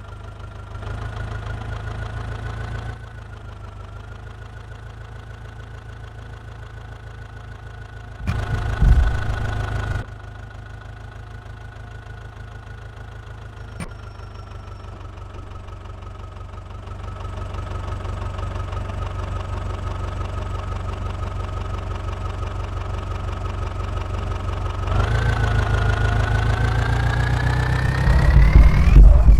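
Diesel engine of a JCB 3DX backhoe loader running steadily and revving up under hydraulic load several times, with a heavy thump about 9 seconds in. Near the end the engine pitch rises in a long rev, followed by loud thumps.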